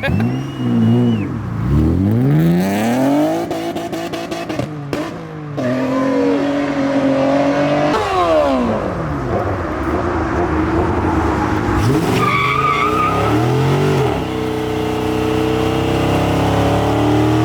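Performance car engines revving and accelerating away, the pitch rising and falling over and over as they rev and shift. A short high squeal comes near the start and again about two-thirds of the way through.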